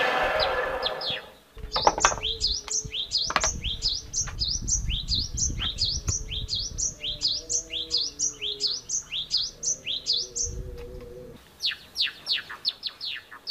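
A home-built table saw's water-pump motor winds down and stops in the first second or so. Then a bird sings a fast run of short, downward-sweeping chirps, about three a second, over low knocks and rumble from wood being handled on the saw table.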